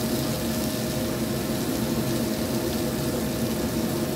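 Diced pumpkin sautéing in a frying pan on a gas burner: a steady sizzle, with a steady low hum underneath.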